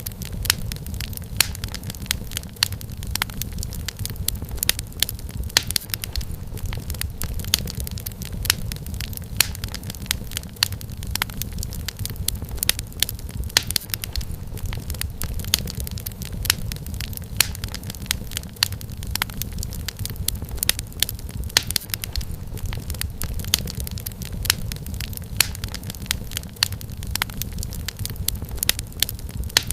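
Firewood burning in a fireplace, crackling: many irregular sharp pops and snaps over a steady low rumble.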